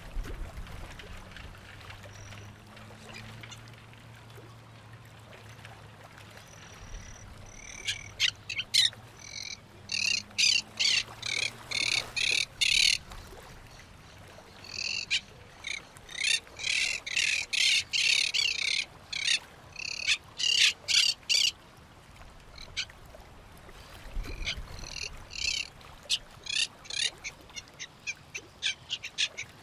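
Birds calling at a pond: bouts of quick, repeated high chirps, several a second, starting about eight seconds in and breaking off and resuming a few times.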